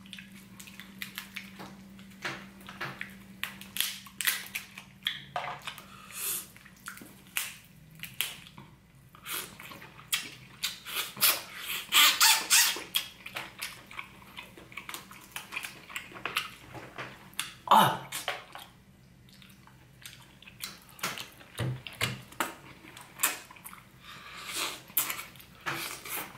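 Wet chewing, lip-smacking and squelching of a person eating king crab meat coated in cheese sauce, with a louder run of squelching about twelve seconds in.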